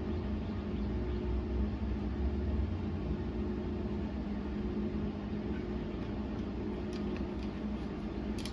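Steady machine hum with a constant low drone and a rumble beneath it; the rumble eases off about two and a half seconds in.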